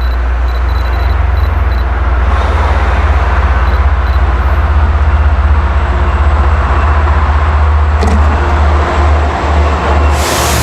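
Long Island Rail Road train led by a DM30AC diesel locomotive, close by at the platform. The engine is a deep, steady drone under loud train noise, with a short sharp hiss of air near the end.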